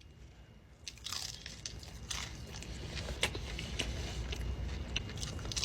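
Close-up biting and chewing of a crunchy fried avocado egg roll: a run of crisp crunches and crackles that starts about a second in.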